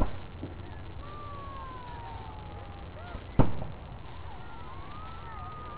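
Two aerial firework shells bursting, about three and a half seconds apart, each a sharp bang that trails off. Between them, faint wavering whistle-like tones glide up and down.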